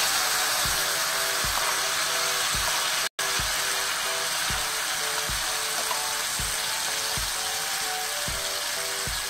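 Shrimp frying in a wok, a steady sizzle as tamarind water is poured in, under background music with a steady beat. The sound cuts out for an instant about three seconds in.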